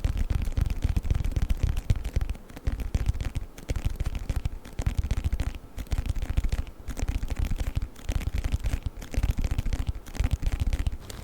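Fast fingernail tapping on a book close to the microphone: dense runs of quick taps, broken by short pauses about once a second.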